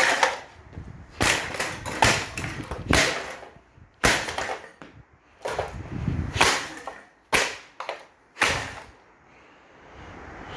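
A Hoover 16-inch desk fan being smashed: about nine hard blows, roughly one a second, each cracking and rattling, stopping about nine seconds in.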